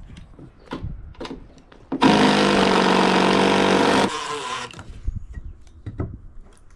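A power tool runs in one steady burst of about two seconds, then cuts off. Scattered knocks and clicks of handling come before and after it.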